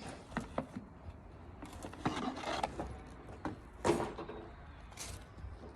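Irregular clicks, knocks and short rustling bursts from motorbike parts being handled by hand, with the engine not running.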